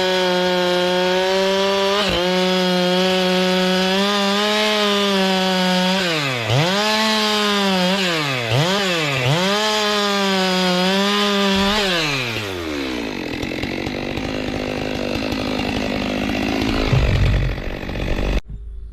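Two-stroke Stihl chainsaw running at full throttle, its pitch dipping sharply three times as it takes load in the cut. About twelve seconds in the engine note falls away. A rushing noise follows, grows louder and stops abruptly near the end.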